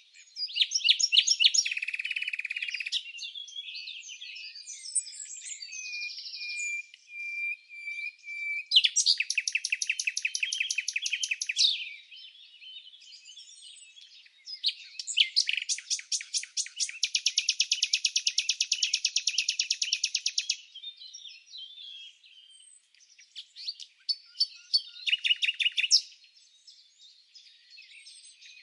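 Songbirds singing: assorted chirps and warbling phrases, with two long rapid trills, one starting about nine seconds in and a longer one from about fifteen to twenty seconds in.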